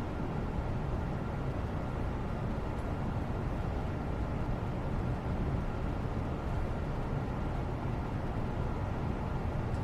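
Steady low rumbling background noise with a faint hum, even throughout, with no distinct events.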